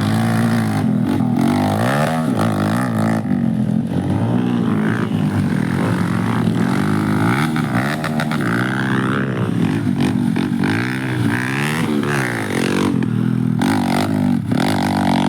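Motocross dirt bike engines revving, their pitch rising and falling over and over, with more than one bike heard at once.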